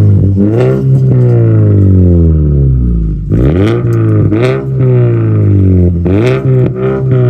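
2014 Mazda 3's 2.0-litre four-cylinder engine revved in repeated quick blips, its pitch falling back slowly after each, through a 3-inch straight-pipe exhaust with the resonator deleted and the catalytic converter hollowed out.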